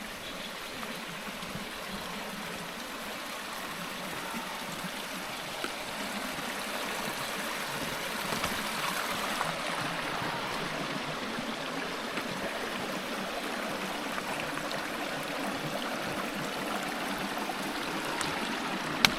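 Stream water rushing steadily, growing somewhat louder over the first half and then holding. A single sharp click near the end.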